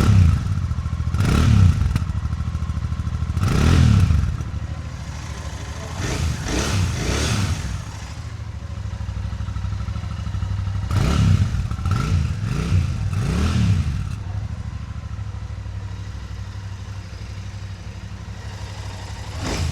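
Royal Enfield Bullet 650's 648 cc parallel-twin engine idling, its exhaust note rising and falling through a series of about eight quick throttle blips, then settling back to a steady idle for the last several seconds.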